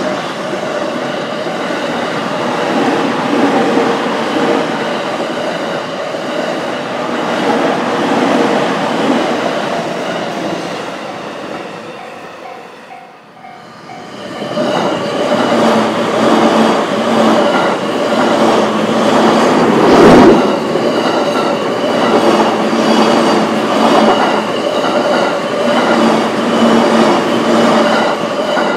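Trains passing over a Japanese level crossing, rumbling and clattering on the rails, one after another: the first fades out about twelve seconds in, and a second comes through a couple of seconds later with a sharp knock in its middle. In the lull between them, the crossing's warning bell can be heard ringing in a steady repeating pattern.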